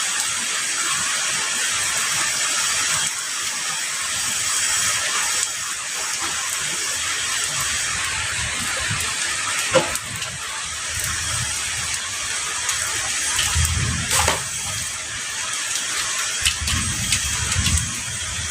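Heavy rain falling steadily, with low rumbles of distant thunder coming and going in the second half and a couple of sharp taps, about ten and fourteen seconds in.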